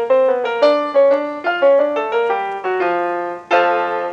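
Old-time solo piano background music: a light melody of struck notes, with a fuller chord about three and a half seconds in.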